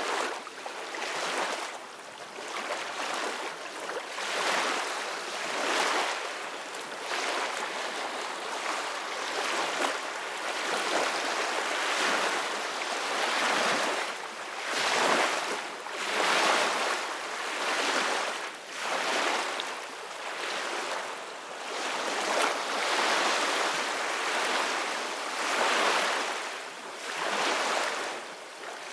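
Ocean waves breaking and washing in, a steady rushing hiss that swells and falls back every two or three seconds.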